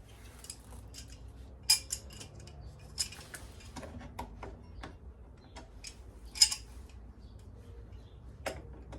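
Sparse metallic clicks and clinks of small tools and hardware being handled while a fastener is threadlocked; the sharpest clinks come a little under two seconds in, about three seconds in, and around six and a half seconds in.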